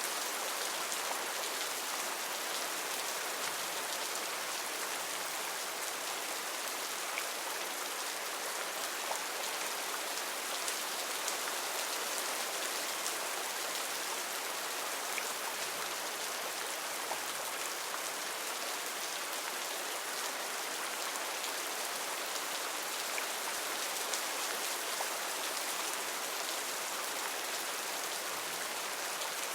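Heavy rain falling steadily, a dense even hiss of drops with occasional sharper drip ticks.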